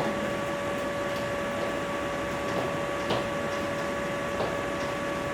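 Steady background hiss with a constant, even hum tone, and a few faint taps about a second, three seconds and four and a half seconds in.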